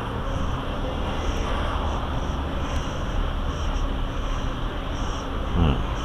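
Steady low engine rumble of distant motor traffic or aircraft, with no distinct events.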